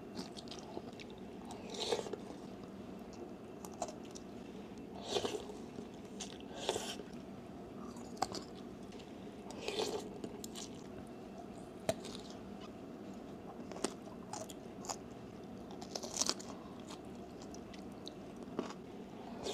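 Close-miked chewing and crunching bites of a packaged bamboo-shoot snack, in short separate bursts every one to three seconds with quiet between them.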